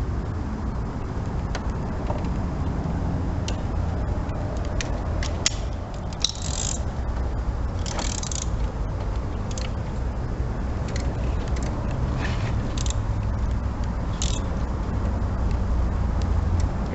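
Metal hand tools clicking and scraping in short, scattered bursts as a spark plug socket on an extension is turned by hand to thread a new plug in, over a steady low background rumble.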